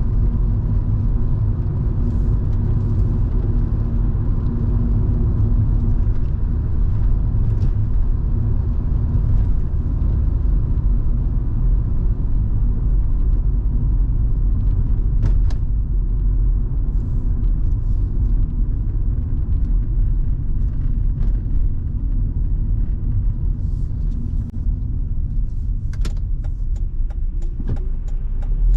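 Volvo V70 2.5T's turbocharged five-cylinder engine and road noise heard from inside the cabin while driving: a steady low rumble, with the engine note changing about ten seconds in and a few sharp clicks near the end.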